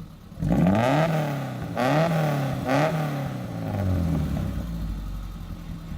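Maruti Gypsy engine through an aftermarket high-performance exhaust, blipped about three times in quick succession, then settling back down toward idle.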